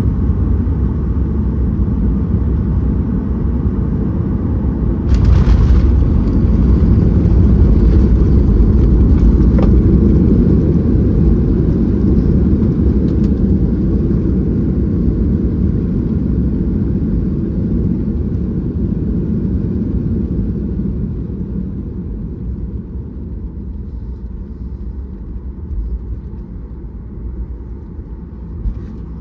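Cabin noise of a Boeing 737-800 landing: a loud, steady low rush that jumps sharply about five seconds in, as at touchdown with reverse thrust, then fades gradually over the last ten seconds as the airliner slows on the runway.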